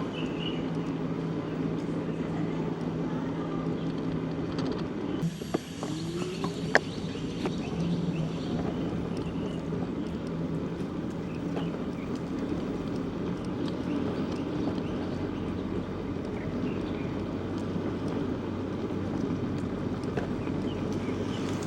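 Steady low rumble of a bicycle ride on a village road, tyres and wind on the microphone. A low hum runs through the first half and then drops out. About a quarter of the way in there are a few sharp clicks and a short rising tone.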